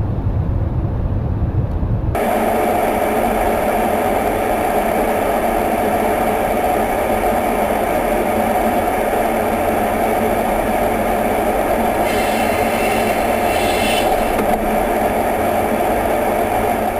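Steady jet engine noise with a layered hum, cutting in abruptly about two seconds in after a low rumble and holding unchanged.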